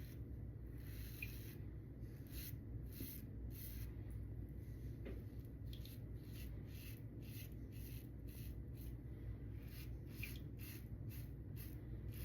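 Safety razor (Lambda Ares v2 with a Tatra blade) scraping through lathered stubble in short, quick strokes, about two a second.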